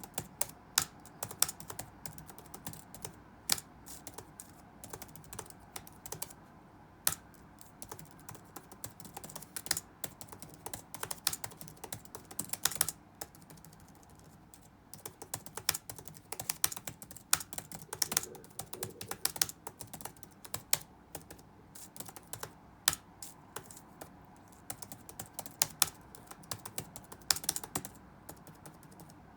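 Computer keyboard being typed on in irregular runs of keystrokes with brief pauses, over a steady low background hum.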